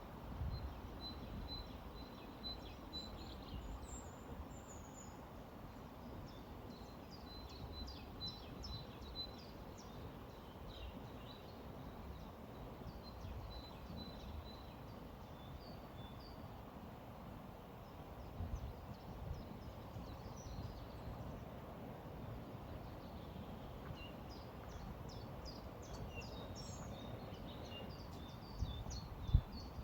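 A river flowing, a steady low rush, with small birds chirping and singing in short high notes, busiest in two spells. A short thump stands out near the end.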